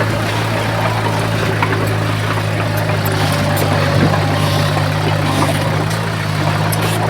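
Komatsu bulldozer's diesel engine running steadily, a constant low drone with light scattered clicks over it.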